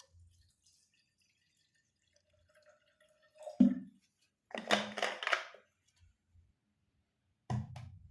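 A kettle and tea ware being handled to heat more water: a sharp knock about three and a half seconds in, a short rush of water sound around five seconds, and another knock near the end.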